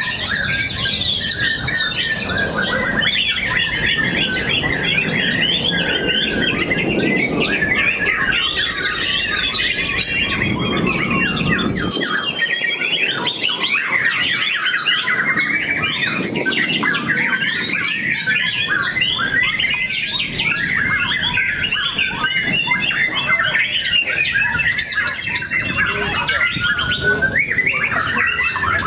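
Several white-rumped shamas (murai batu) singing at once: a dense, unbroken stream of quick chirps, trills and whistles.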